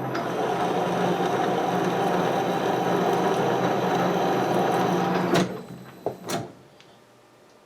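Metal lathe running under power during a thread-cutting pass, a steady mechanical whir with a constant hum. It stops abruptly about five seconds in, followed by a couple of sharp clicks.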